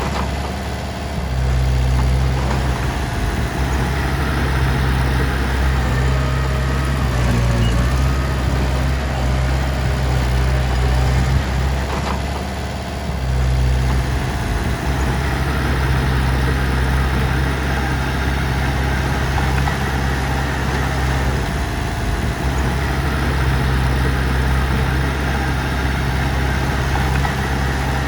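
Heavy diesel engine running steadily with a low drone, easing briefly about a second in and again around twelve seconds in.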